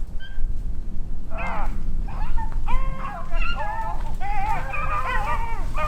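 Beagles baying, several voices overlapping, starting about a second and a half in.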